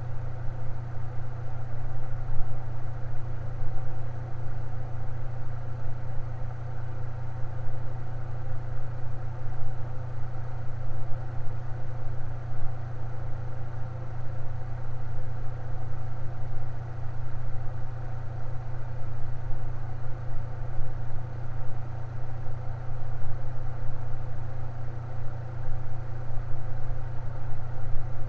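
Electric fan running steadily: a low, even hum with no change in speed.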